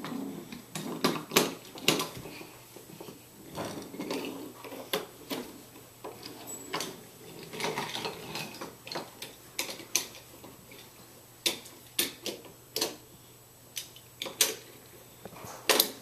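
Toy train set pieces clicking and knocking irregularly as they are handled and pushed along the track, some louder knocks a couple of seconds in and near the end.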